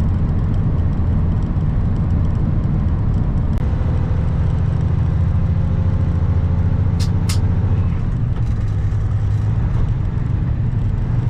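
Diesel engine of a Kenworth W900 semi truck running steadily while driving, with two sharp clicks about seven seconds in.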